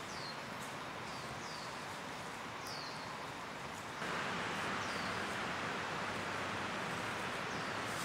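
A bird gives several short, high chirps that fall in pitch, spaced irregularly over a steady background hiss. About halfway through, the hiss gets louder.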